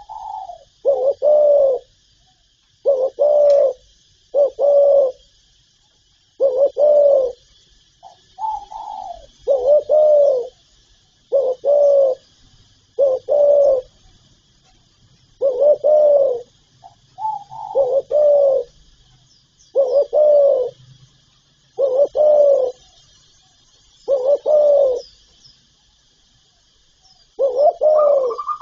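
Spotted dove cooing: a string of short, low coos about every one to two seconds, several opening with a brief higher note. A faint steady high hiss runs underneath.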